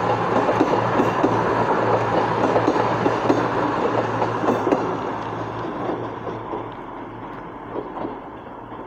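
CrossCountry Voyager diesel multiple unit passing close by: a steady underfloor engine hum under a rapid clatter of wheels over the rails. It fades away from about halfway through as the train moves off.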